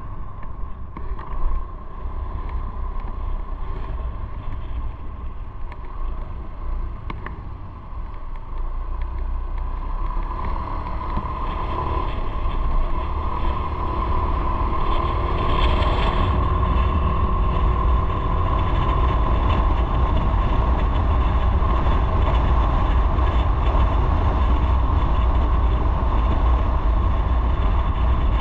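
Motorcycle engine running while riding, with a low rumble of wind and road noise; it grows louder about a third of the way in as the bike speeds up.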